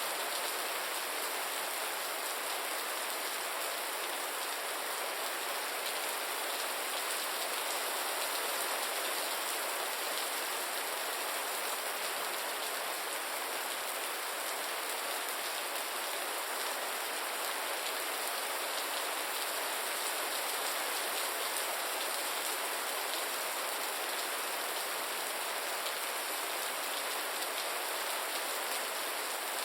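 Steady rain falling on a surface, an even hiss of many drops with no changes.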